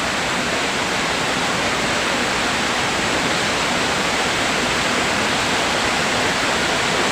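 Waterfall pouring steadily, a close, loud, even rush of falling water.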